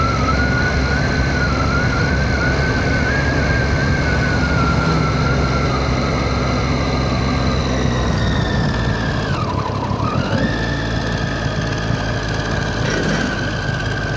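Triumph Street Triple 675's 675 cc inline three-cylinder engine running under way on the motorcycle, with a steady low rumble and a high, slightly wavering whine. About ten seconds in the pitch dips quickly and climbs back.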